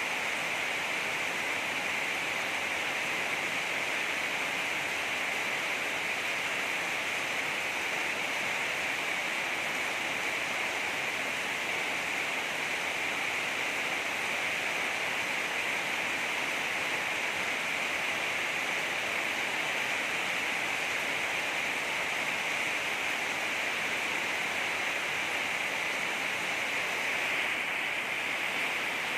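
Heavy rain falling steadily, an even, unbroken rushing noise.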